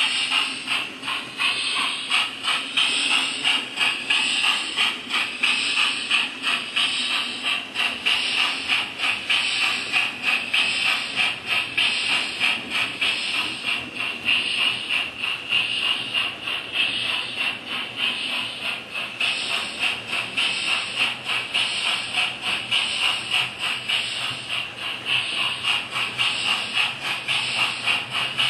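Hornby DCC sound decoder playing steam locomotive chuffing through a small model speaker, a steady hissy beat at about two to three chuffs a second as the model runs.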